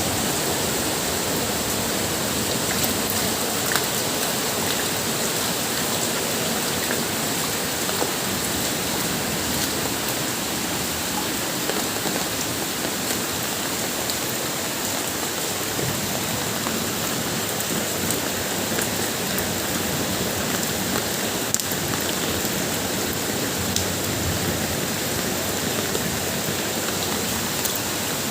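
Heavy rain falling steadily as an even hiss, with scattered sharp ticks of single drops hitting close by.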